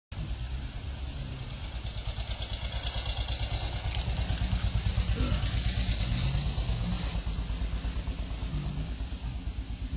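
A small engine running steadily with a fast, even low pulsing.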